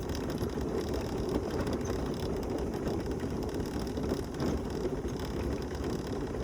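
Mobility scooter rolling over cobblestones, its wheels and frame rattling steadily with many small, irregular knocks. A bit noisy.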